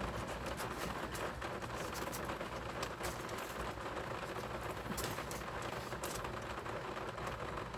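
Rain falling steadily on a window, with scattered sharp ticks of drops hitting.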